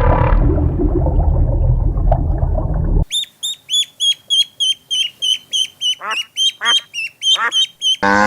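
Ducks calling: a rapid run of short, high-pitched calls, about four a second, with a few longer falling calls among them. This follows a sudden cut from about three seconds of rough, low animal noise.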